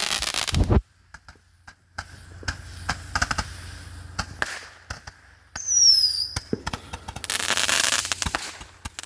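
Consumer fireworks going off: a loud hissing burst, then scattered sharp pops and crackle. About six seconds in a high whistle falls in pitch, and a second long hissing, crackling burst comes near the end.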